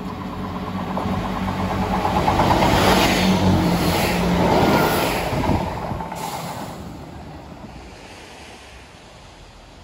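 Diesel multiple unit passing close by: a steady engine drone with wheel and rail noise that builds to a peak a few seconds in, then fades as the train draws away.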